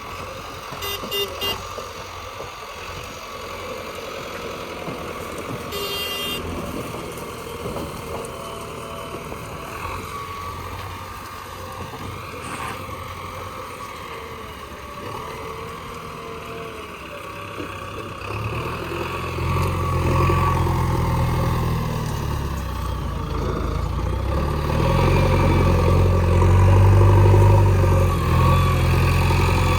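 Backhoe loader's diesel engine working, growing much louder and heavier about two-thirds of the way in. Two short high-pitched toots come near the start.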